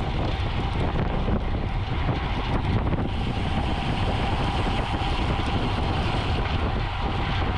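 Steady wind noise buffeting the microphone of a camera on a racing bicycle moving at speed.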